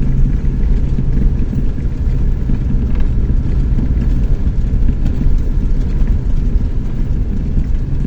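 Chevrolet S10 Tornado pickup on the move: a steady low rumble of engine and road noise.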